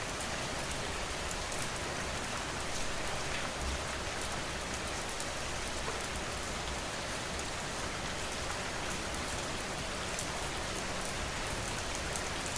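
Steady rain falling and pattering on a surface, with scattered drop ticks.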